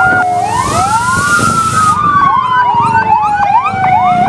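Fire engine siren: a long wail that climbs quickly, then sinks slowly over several seconds and climbs again near the end, with a faster yelping siren sweeping over it. A hiss sits under it for the first two seconds.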